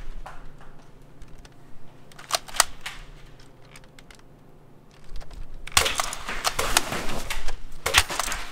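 A few sharp plastic clicks, then from about two-thirds through a dense run of clicks and clatter: Nerf dart blasters being primed and fired.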